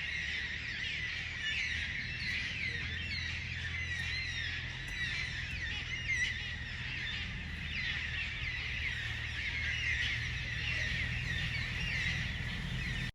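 A flock of birds calling all together in a dense, continuous chatter of short, quickly falling calls, with a low steady rumble underneath.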